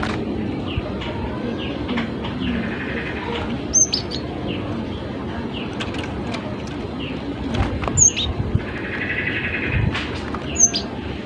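Cinereous tit (gelatik batu) calling. It gives scattered short chirps, a few sharp high notes, and twice a buzzy churring rattle, over a steady low background noise.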